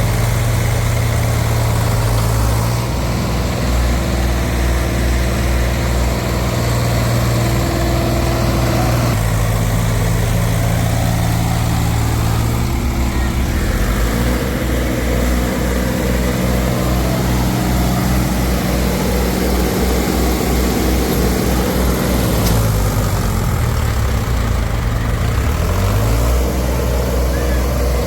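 Diesel tractor engine running loudly, its speed shifting up and down several times, with a drop in revs and then a rise again near the end.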